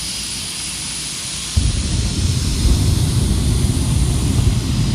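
Jet dragster's turbine engine running with a steady high whine and hiss; about a second and a half in, a loud low rumble suddenly joins it and holds.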